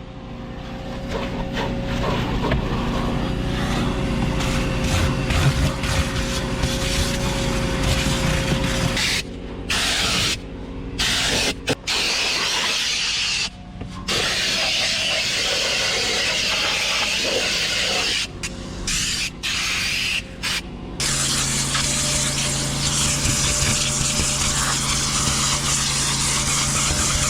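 Detailing equipment spraying with a steady hiss over a motor's hum, cut into several short clips with abrupt breaks between them.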